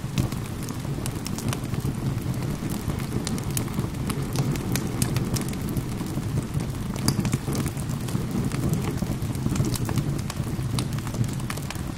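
Fireplace fire crackling, with many sharp, irregular pops and snaps over a steady rushing background of rain.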